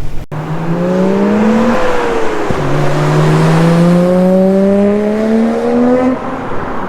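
Nissan Skyline R32 GT-R's twin-turbo RB26 straight-six accelerating hard under boost through an HKS Silent Hi-Power exhaust and Mines equal-length front pipe. The engine note rises, drops at a gear change about two seconds in, then climbs steadily for about three and a half seconds before the throttle is lifted near the end.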